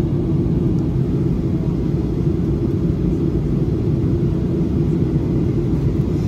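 Steady low rumble of a Boeing 737-800 in flight on approach, heard inside the passenger cabin: its CFM56-7B turbofan engines and the rush of air over the fuselage.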